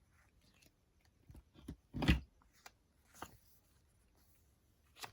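Paper journal pages and inserts being handled on a desk: light rustles and taps, with one dull thump about two seconds in.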